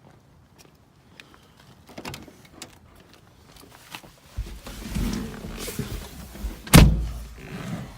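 A Porsche 914's starter cranks its air-cooled engine on a cold start, beginning about four seconds in after a few light clicks. There is one sharp, loud bang near the end.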